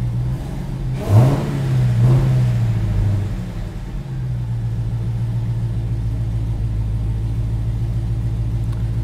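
Supercharged 6.2-litre Hemi V8 of a Dodge Challenger SRT Hellcat Redeye idling after a start. It is blipped up briefly about a second in and again near two seconds, then settles back to a steady idle, which the owner takes for a slight misfire at idle.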